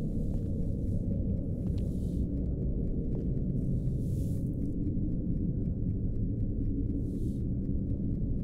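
Low, steady rumbling drone of a horror film's score, with a few brief, faint hissing rustles above it.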